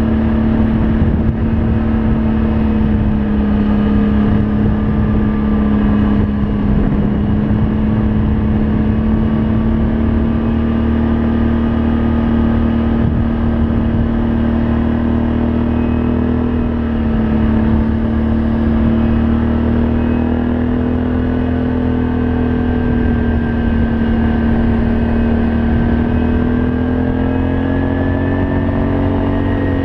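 Can-Am Outlander 500 ATV engine running through an aftermarket Yoshimura exhaust at fairly steady revs. The note dips briefly about halfway through and climbs slightly near the end.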